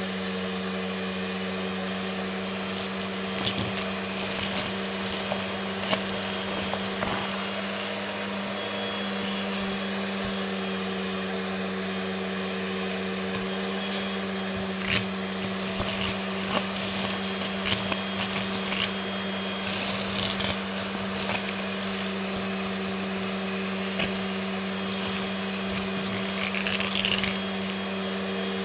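Vacuum cleaner running steadily, with irregular crackling and rattling as debris is sucked up, busiest a few seconds in and again through the second half.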